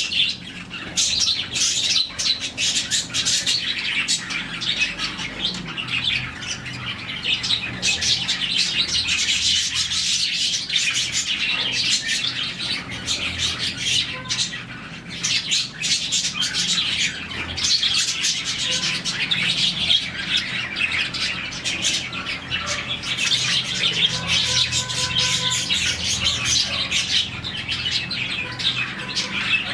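A flock of budgies chattering and chirping without pause, many birds calling over one another with occasional harsher squawks.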